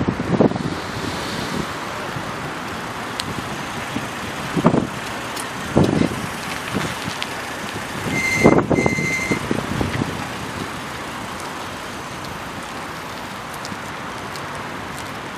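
Outdoor traffic and wind noise with a few short thumps, and two short high electronic beeps about eight seconds in.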